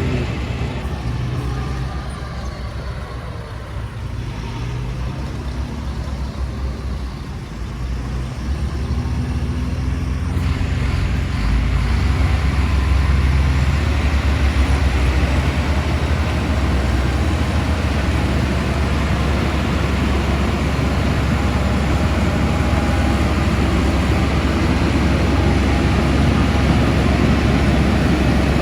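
Diesel engines of heavy earthmoving machinery (dump trucks and a bulldozer) running with a deep, steady rumble. About ten seconds in the sound grows louder and fuller, with more hiss and clatter over the low drone.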